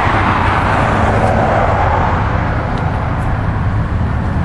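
Road traffic noise: a steady rush of passing vehicles over a low hum, slowly fading.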